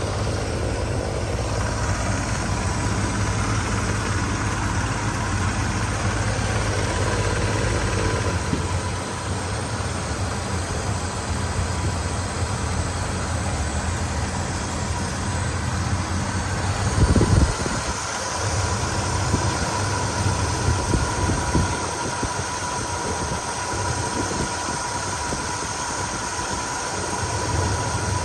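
1997 GMC Sierra 3500 pickup's engine idling steadily, with one brief louder thump about two-thirds of the way through.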